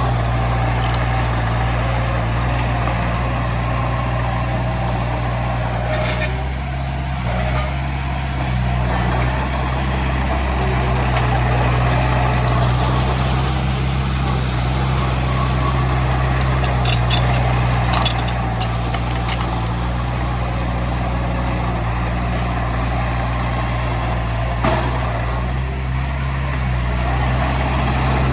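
Heavy diesel engine of earthmoving machinery running steadily under load, with a few short metallic knocks in the second half.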